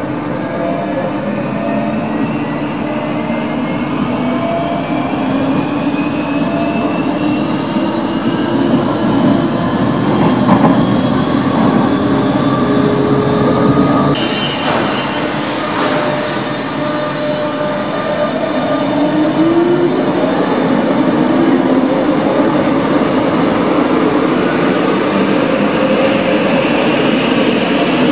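Electric Madrid commuter train (Cercanías) running underground, its motors whining and rising slowly in pitch as it gathers speed over wheel and rail noise. About halfway through the sound cuts abruptly to a train moving along the platform, again with a slowly rising whine.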